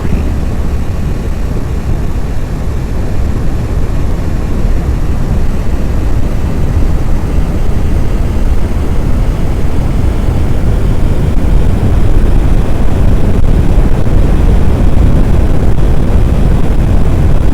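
Loud, steady low rumble of strong wind buffeting the microphone in a severe thunderstorm, growing a little louder in the last few seconds.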